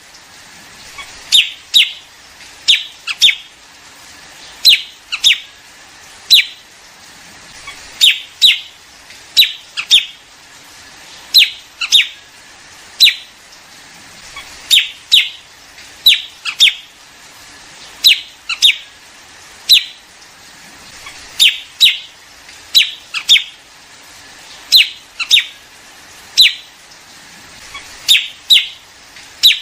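Recorded liếu điếu bird calls: short, sharp, falling chirps, often in pairs, repeating every second or two without a break. This is a looped call track meant to lure a flock for trapping.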